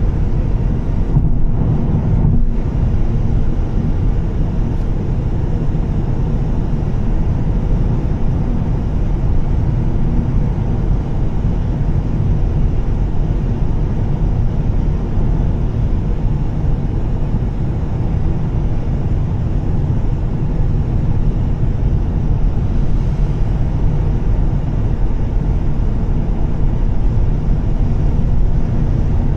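Volvo S60 T6's turbocharged straight-six with a Heico aftermarket exhaust running at a steady cruise, mixed with tyre noise on a wet road. The level holds steady with no revving or gear changes.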